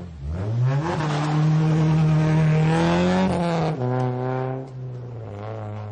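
Car engine revving: the pitch climbs quickly in the first second, holds high for about two and a half seconds, then drops and settles into a steadier, lower run before cutting off.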